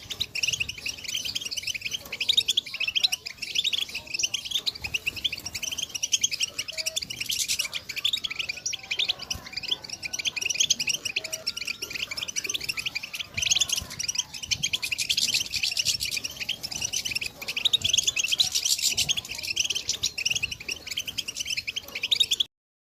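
A group of female European goldfinches giving their rapid twittering 'betbeta' calls, dense overlapping chirps with no pause. The calls cut off suddenly near the end.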